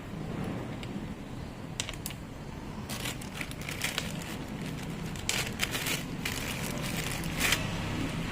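Irregular clicks and rattles of hard parts being handled, clustered in the middle of the stretch, over a low steady hum.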